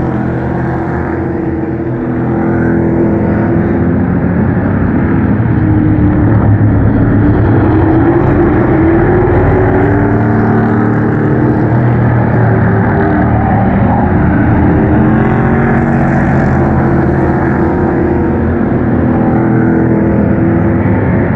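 A field of Pro Truck race trucks' engines running hard around an oval track, several engines at once with overlapping pitches rising and falling as they lap. It gets a little louder about two seconds in.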